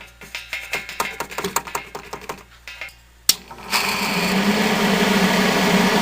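Light clicks and taps, then a sharp switch-like click, and a 1970 Triangle Mobile Home Products bathroom exhaust fan starts up into a steady motor hum with a fast rattle. The startup rattle comes from its worn, once dry-run bearings.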